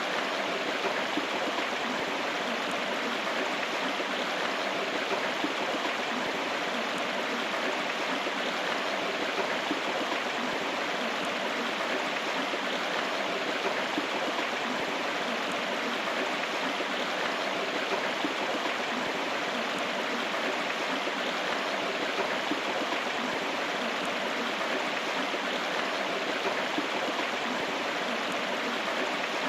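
A river's running water, a steady rush with no breaks.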